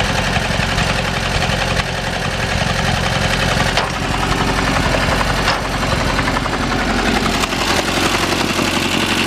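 1943 Ford 9N tractor's four-cylinder flathead engine running steadily, with a fast, even pulse.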